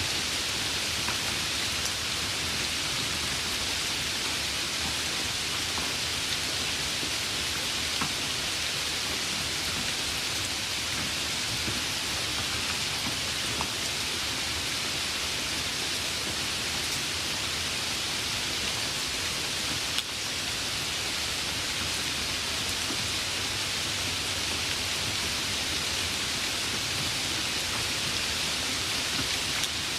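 Steady rain falling, an even unbroken hiss with a few sharp drop ticks now and then.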